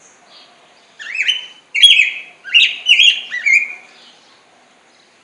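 Black-backed grosbeak (rey del bosque) singing: a single phrase of quick, sweet, warbled notes that rise and fall. It starts about a second in, lasts about three seconds, and fades out.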